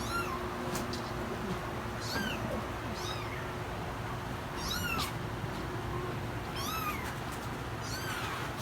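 Kittens mewing: about six short, high-pitched mews, one every second or two.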